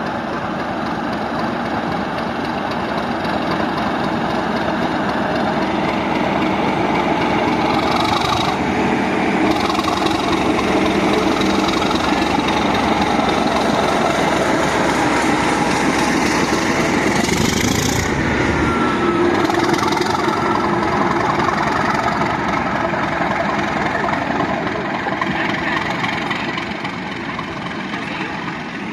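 Class 37 diesel locomotive's English Electric V12 engine running, growing louder over the first few seconds and easing off near the end, with a few brief bursts of hiss.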